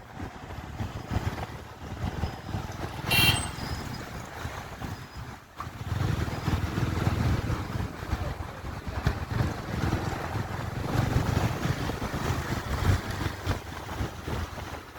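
Wind buffeting the microphone over the low rumble of a motorcycle underway. A brief high-pitched sound cuts through about three seconds in.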